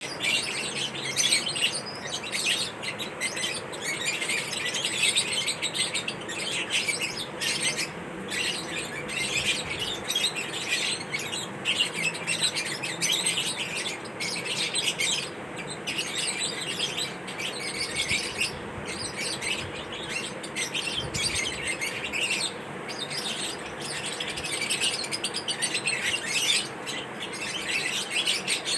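Lovebirds chirping and twittering continuously, many rapid high-pitched calls overlapping.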